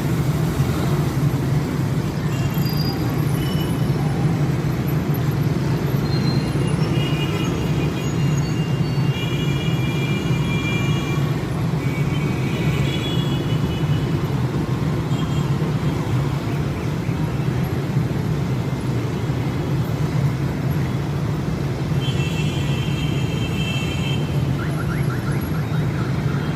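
Steady rumble of a group of motorcycle engines running in street traffic. Brief high-pitched tones sound over it twice.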